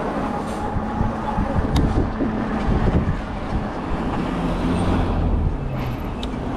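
City road traffic: the steady, low rumble of motor vehicle engines and tyres close by.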